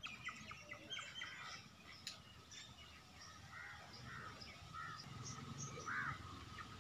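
Faint birdsong: scattered short chirps and calls of several birds.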